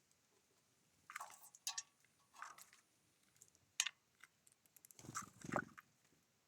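Small birds at a feeder pecking and scratching at seed: a faint, irregular run of clicks and scratchy rustles, with one sharp click near the middle and a fuller rustle about five seconds in.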